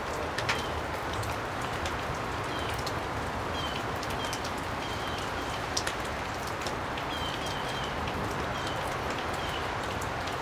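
Steady even hiss like rain, with short high chirps scattered through it and two sharp clicks, about half a second in and about six seconds in.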